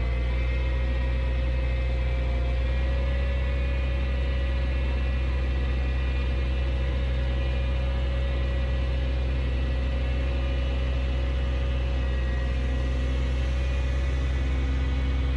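Komatsu D58P bulldozer's diesel engine running steadily: a deep, even drone with a steady whine above it.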